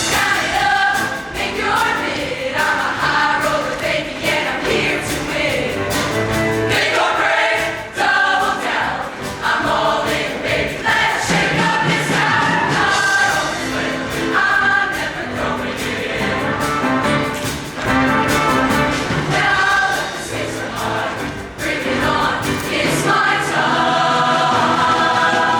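Show choir singing in parts over loud instrumental accompaniment.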